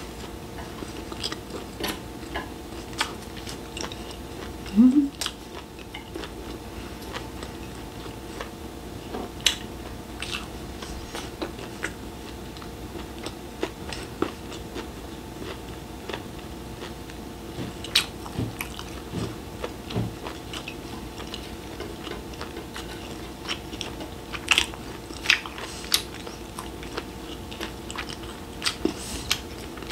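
Close-miked chewing of grilled beef intestines, with wet mouth clicks and smacks scattered irregularly throughout over a faint steady hum. A short voiced "mm" rises about five seconds in.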